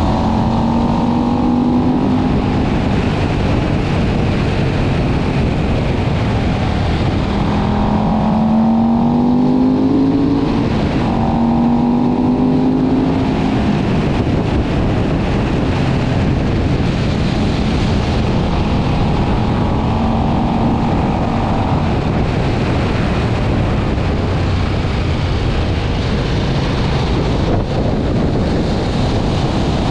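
KTM 1190 Adventure's V-twin engine running at speed under a heavy rush of wind noise, its pitch climbing several times as the bike accelerates through the gears, most clearly about eight to thirteen seconds in.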